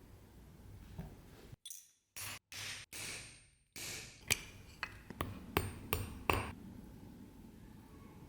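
A run of about seven sharp metallic taps or clinks over two seconds. They come after a few short bursts of hissing, scraping noise that are broken off by abrupt cuts.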